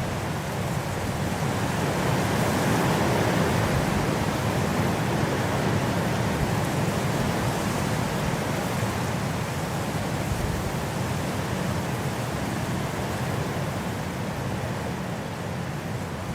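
Wind blowing steadily as an even rushing noise. It swells about two seconds in and eases slowly toward the end.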